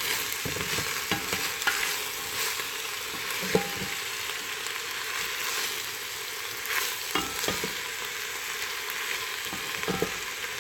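Sauce sizzling steadily in a pot on the stove, with scattered clicks and knocks from a utensil stirring it against the pot.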